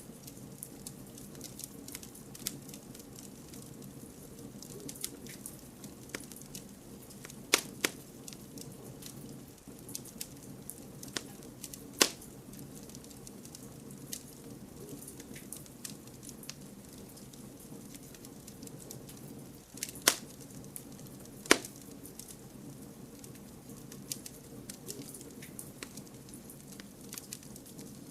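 Wood campfire burning with a steady low hiss and frequent small crackles, broken by several loud sharp pops about 7 s, 12 s, 20 s and 21 s in.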